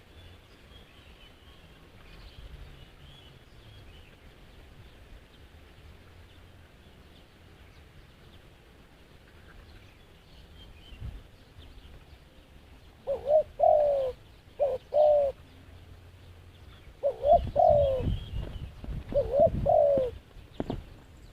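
Doves cooing in two bouts of short, arching coo phrases about halfway through and again near the end, with low thuds under the second bout. Faint chirps from small birds come earlier.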